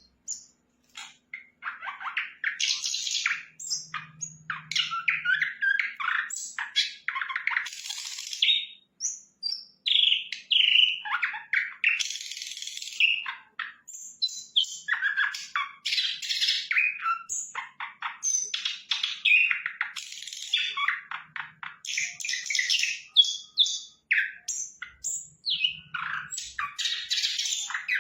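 Sikatan londo, a flycatcher, singing a long, fast, varied song of chirps and rapid note runs, with only brief pauses.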